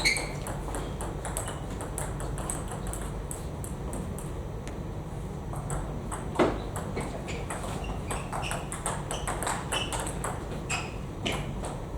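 Table tennis balls clicking off bats and tables in quick, irregular strikes during rallies, with a louder knock about six and a half seconds in.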